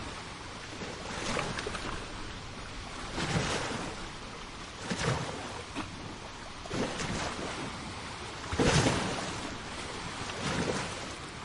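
Small sea waves breaking and washing up a beach, one after another about every two seconds, the loudest near the end.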